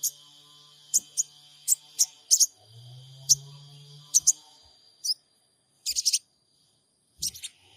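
Sogon sunbird giving short, sharp, very high chirps one after another at an uneven pace, over a faint low hum. The calls break off for about two seconds of dead silence midway, then a quick cluster of chirps resumes.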